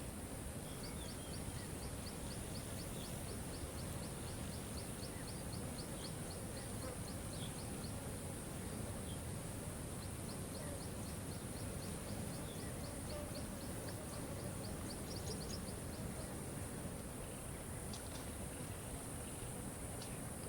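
Waterfall rushing steadily. Over it, a rapid run of short high chirps, about four or five a second, sounds for several seconds, pauses, then comes again, with a few faint scattered bird notes.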